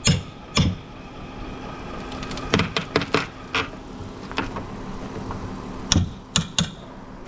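About ten sharp knocks and clacks at uneven intervals, over a steady low hum.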